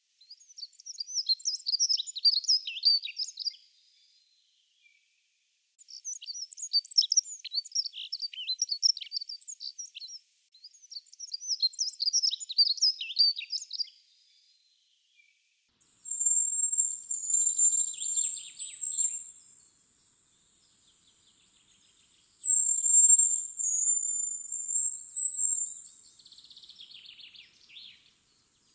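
Dunnock singing three fast warbling songs of a few seconds each. About sixteen seconds in, a hazel grouse takes over with its very high, thin whistling song, given twice, with fainter lower trills under the whistles.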